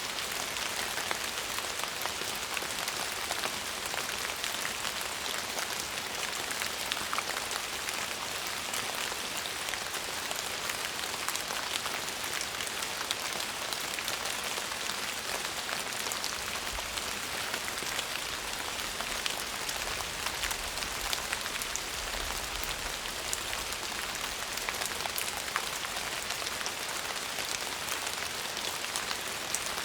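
Steady rain falling on a surface, an even hiss with many small drop ticks. A faint low rumble comes in about two-thirds of the way through.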